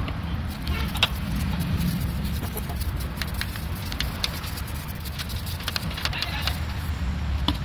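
Steady low rumble of workshop background noise with scattered light clicks and knocks, a sharper knock about a second in and another near the end.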